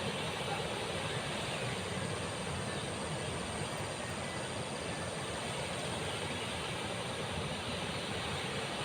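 Fast-flowing river water rushing in a steady, dense noise without breaks.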